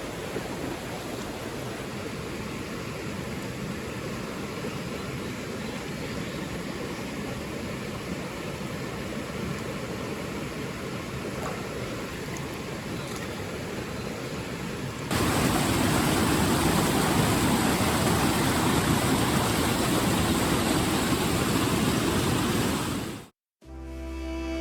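Mountain stream water rushing steadily; about fifteen seconds in it cuts to a louder rush of water. The sound drops out briefly, and music starts near the end.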